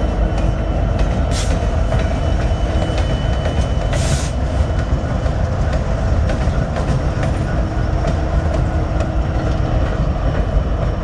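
Train of diesel locomotives rolling past with a steady low rumble of engines and wheels, and light clicking of wheels over rail joints. Two short bursts of noise come about a second and a half and four seconds in.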